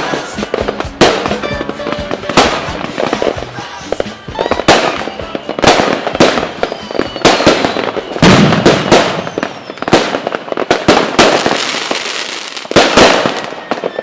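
Fireworks going off: a rapid series of sharp bangs, about one a second, over continuous crackling.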